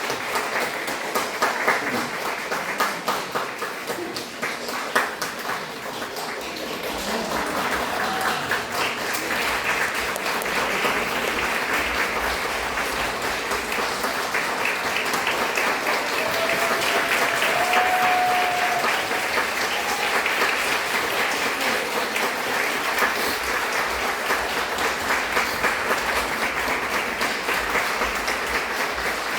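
Audience applauding steadily, the clapping growing louder through the middle and easing off slightly toward the end.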